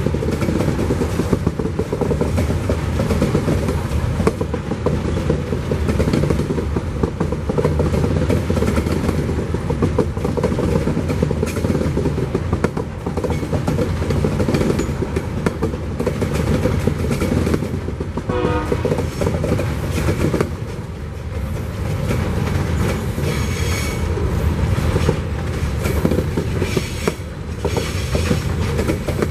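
Coal hopper wagons of a freight train rolling past at steady speed: a continuous rumble and clatter of steel wheels over the rail joints. Short high-pitched squeals come in about two-thirds of the way through and again near the end.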